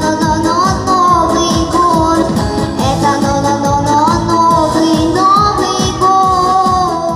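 A song with a steady beat: a voice sings a held, gliding melody over a rhythmic accompaniment.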